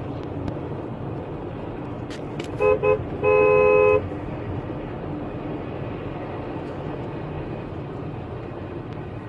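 Vehicle horn honking with two quick beeps and then a longer blast, about three seconds in, over steady road and engine noise.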